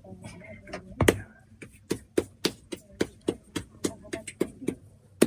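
A quick, fairly even series of sharp knocks or strikes, about three or four a second, starting about a second in.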